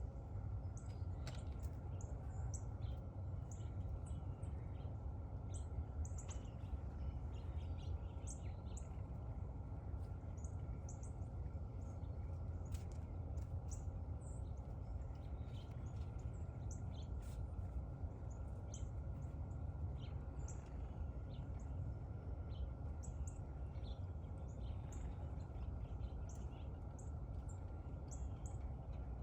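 Small birds chirping, many short, high chirps scattered throughout, over a steady low background rumble.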